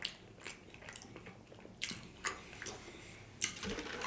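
Close-miked chewing of a sushi mouthful with a shrimp tail still on, giving several sharp crunches at uneven intervals.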